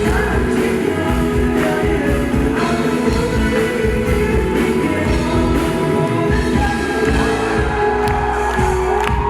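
Live rock band playing a song with sung vocals over drums and sustained instruments, amplified through a stage PA.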